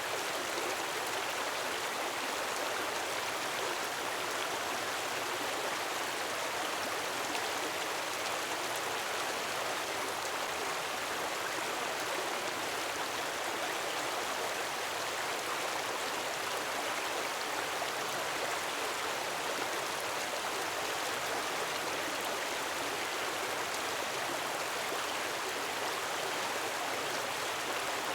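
Gentle waterfall splashing into water, a steady even rush with no swells or breaks.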